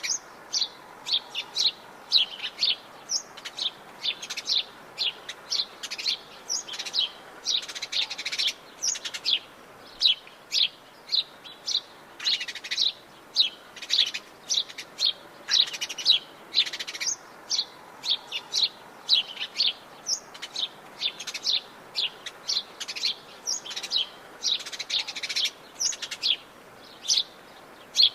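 Several birds chirping and singing together in quick, short high notes, several a second, over a faint steady background hiss.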